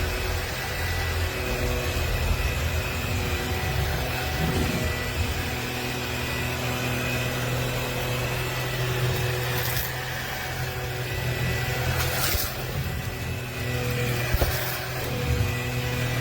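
Bissell PowerClean upright vacuum cleaner running steadily, its motor giving a constant whine over the airflow noise. A few short crackles come in the second half.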